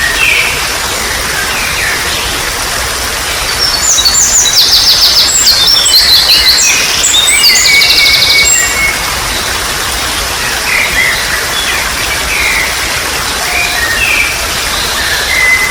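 Wild songbirds singing over a steady trickle of running water. A loud burst of rapid twittering song with fast trills comes from about three and a half to eight and a half seconds in, with shorter scattered chirps before and after.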